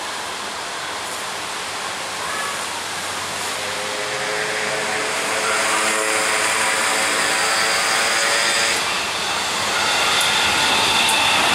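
KAI diesel-electric passenger train approaching at speed, its rumble and rail noise growing louder. The locomotive's horn sounds a steady chord for about five seconds midway and cuts off sharply.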